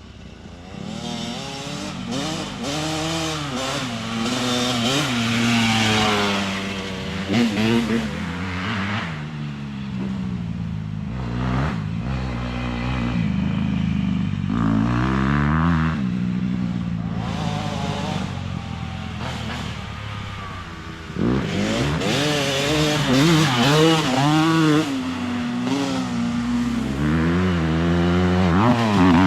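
Dirt bike engine running and revving, its pitch rising and falling over and over, getting louder about three quarters of the way through.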